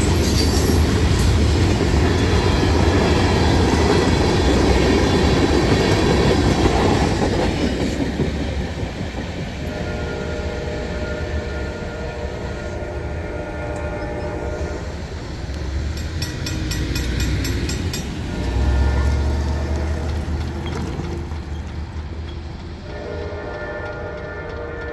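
Freight cars rolling through the grade crossing, wheels clattering on the rails. It is loud for the first eight seconds, then fades as the last car clears. After that, a train horn sounds in the distance in long steady blasts, three times, over the crossing's Safetran mechanical bell ringing.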